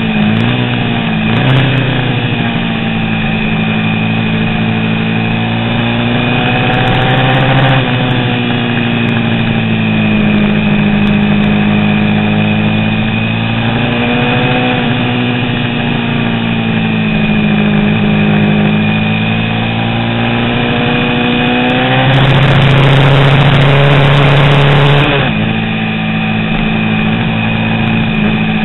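Vintage 350 cc road-racing motorcycle engine running hard, its pitch rising and falling as the rider works through the gears, with sudden short dips at the shifts about a second in, near eight seconds and at the end. About two-thirds of the way through, a louder, rougher stretch lasting some three seconds.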